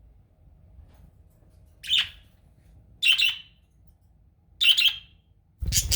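Pet budgerigars giving three short, sharp squawks a second or so apart, then a louder, noisier burst of calls near the end.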